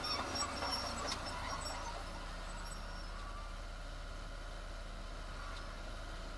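Heavy diesel construction machinery running steadily, with scattered clinks and short squeaks in the first couple of seconds, then an even drone.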